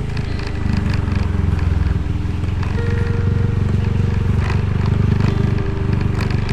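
Motorcycle engine running steadily while the bike is ridden, with a dense low pulsing.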